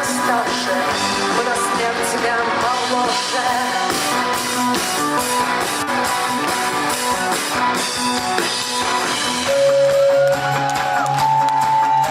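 Live rock band music with singing, guitars and drum kit; a held melody line and a steady bass come in about ten seconds in.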